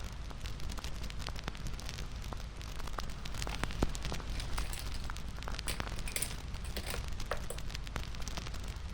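Wood fire crackling: a steady low rumble of burning with many sharp pops and snaps, which come thicker and louder around the middle.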